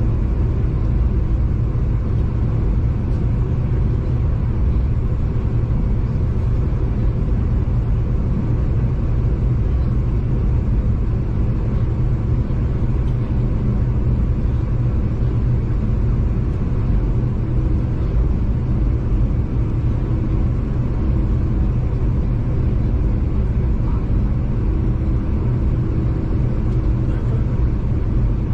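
V/Line passenger train running along the line, heard from inside the carriage: a steady low rumble of wheels on track with a faint constant hum.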